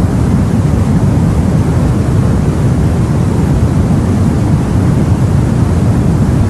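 Sea and wind noise heard from a boat: a steady deep rumble with no separate wave breaks.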